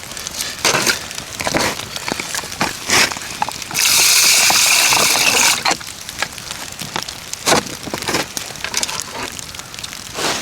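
Water sloshing, with scattered clicks and knocks and a loud steady hiss lasting about two seconds near the middle.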